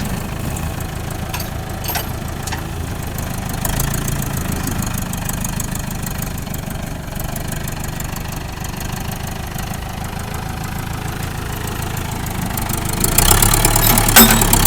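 Engine running steadily at low revs, getting louder about 13 s in, with a single sharp knock near the end.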